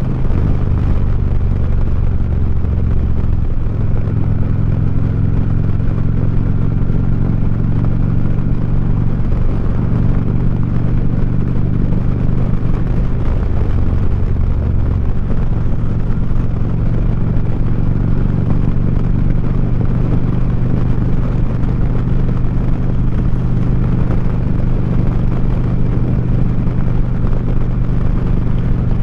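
2009 Harley-Davidson Street Glide's V-twin running through 4.5-inch SharkRoad slip-on mufflers while riding, heard from the saddle. The engine note steadies and shifts a few times as the throttle changes.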